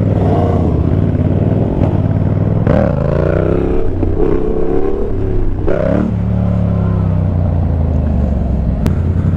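Motorcycle engine running while riding, with the revs rising and falling about three and six seconds in.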